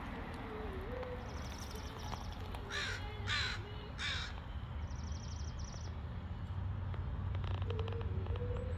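A bird gives three loud, harsh calls in quick succession about three seconds in, over a steady low rumble and faint high, rapid trills.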